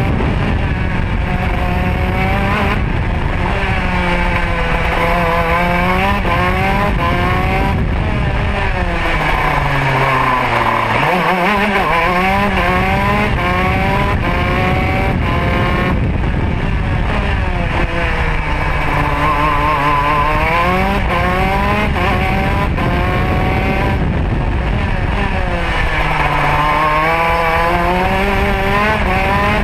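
Modena two-stroke kart engine at racing speed, its pitch climbing repeatedly under acceleration and falling away under braking, with the deepest drop about ten seconds in.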